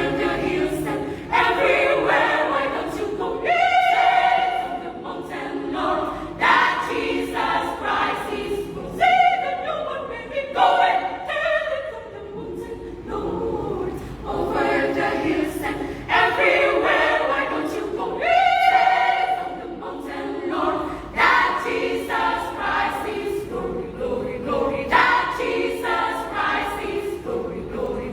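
Women's choir singing a cappella, phrases rising and falling in several voice parts.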